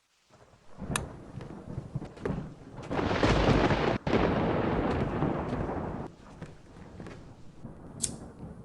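Thunderstorm sound effect: a rolling rumble of thunder that swells to its loudest in the middle, breaks off for an instant about four seconds in, then fades to a steady hiss, with a sharp crack near the start and another near the end.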